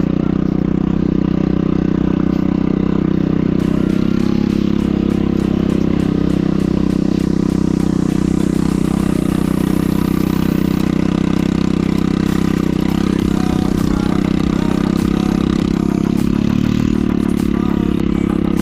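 A 150 cc scooter engine running at a steady speed, with light clattering.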